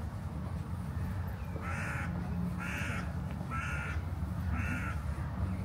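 A bird cawing four times, harsh calls about a second apart, over a steady low rumble.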